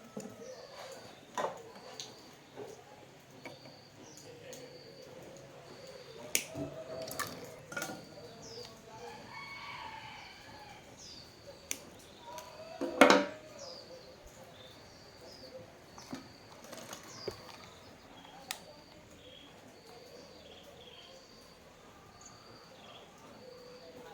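A small bird chirping over and over in short, high notes about once a second, with scattered sharp clicks and one louder knock about 13 seconds in.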